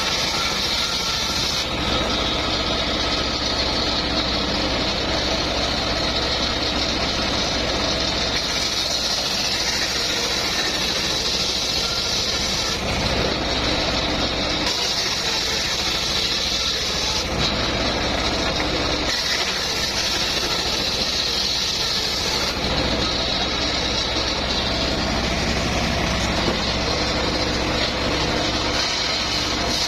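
Home-built circular sawmill running steadily, its engine held at a constant speed while the blade cuts mahogany. A higher cutting sound comes and goes in several stretches of a few seconds each as the wood passes through the blade.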